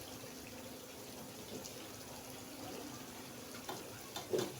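Fried rice sizzling faintly in a pot on low heat, with a few spoon knocks and scrapes against the pot near the end.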